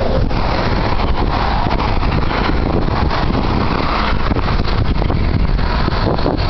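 Steady rushing road and wind noise of a car driving, with a loud fluttering of wind.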